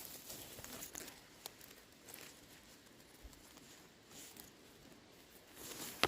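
Faint rustling and scattered small crackles of grass, moss and twigs being pushed aside by hand while picking mushrooms on the forest floor. A sudden loud rustle begins right at the end.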